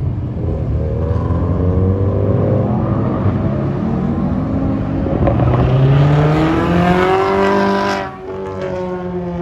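Car engines revving and accelerating: one engine climbs in pitch for a few seconds, cuts off sharply about eight seconds in, then runs on at a steady, lower note.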